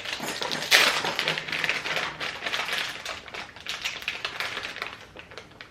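Rapid, irregular crackling and rustling of plastic food packaging being handled, loudest about a second in.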